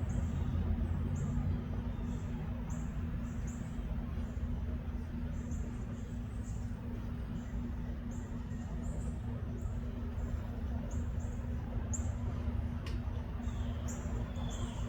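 Outdoor ambience: many short, high-pitched chirps from a small wild creature, coming irregularly over a steady low rumble, with a single sharp click near the end.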